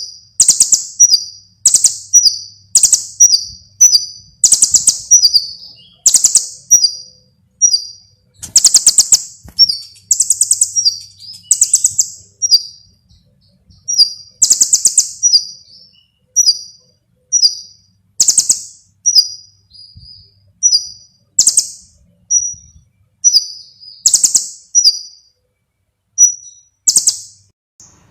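A konin bird singing: loud, high chirping phrases repeated about once every second or so, each followed by quick short notes. It is a recorded lure song meant to set caged konin singing.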